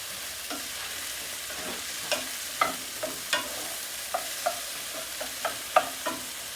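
Onions and mushrooms sizzling in butter in a frying pan, stirred with a utensil. There is a steady sizzle, with about a dozen irregular knocks and scrapes of the utensil against the pan.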